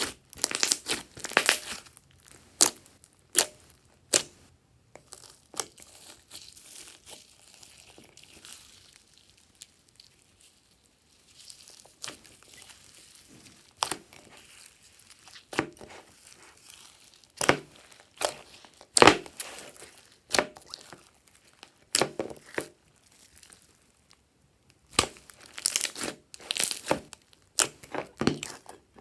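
Glossy slime being kneaded, stretched and pressed by hand, giving irregular sharp pops and sticky crackles, sometimes in quick flurries, with short quieter spells between.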